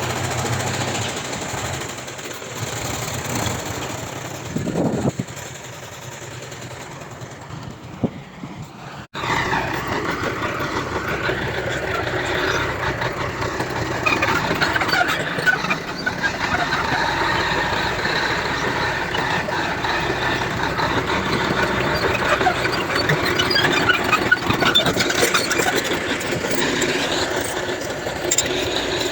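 Heavy diesel earthmoving machinery, bulldozer and dump trucks, running. About nine seconds in the sound breaks off abruptly and comes back louder and busier, with scattered clicks and clanks over the engine noise.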